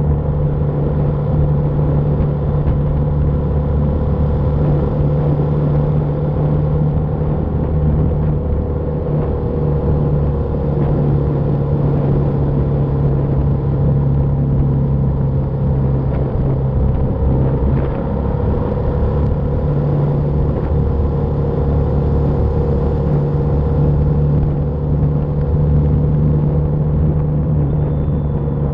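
BMW G310R's single-cylinder engine running steadily while riding, with a steady low engine note and a few small changes in pitch around the middle.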